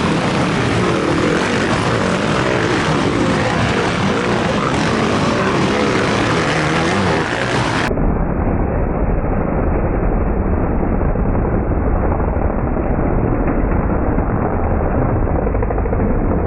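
Motocross bike engines revving and running as dirt bikes race on the track, the pitch rising and falling with the throttle. About eight seconds in the sound cuts abruptly to a muffled, low-heavy rumble.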